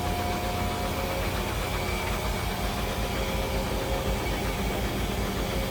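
Medium-duty forestry bucket truck's engine idling steadily, heard from the cab.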